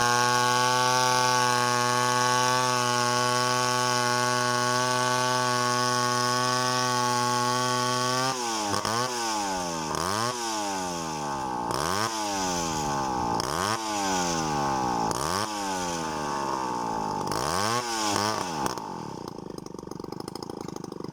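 Chainsaw engine running at a steady high speed for about eight seconds, then its pitch repeatedly dropping and climbing back, about every second and a half. It drops off near the end.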